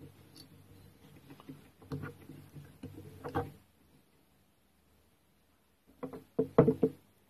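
Clicks, knocks and light rattles of hand tools and metal and plastic engine parts as the old ignition coil is taken off a petrol grass strimmer. They come in two clusters with a pause between, and the second, near the end, is the louder.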